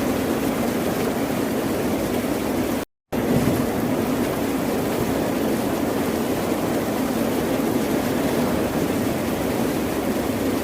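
Ocean surf, a steady wash of wave noise without distinct breaks. About three seconds in the sound cuts out completely for a fraction of a second, then resumes.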